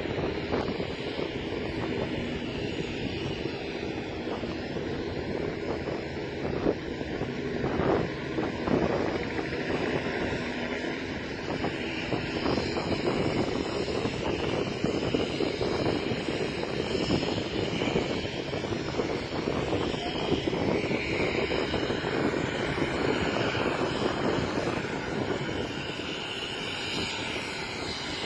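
A de Havilland Vampire's Goblin turbojet running on the ground in its first engine run after a service, a steady jet whine and rush.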